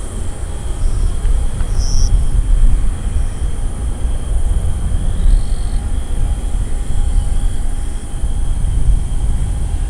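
Boeing 777-200 jet engines running at a distance: a loud, uneven low rumble with thin steady whining tones above it.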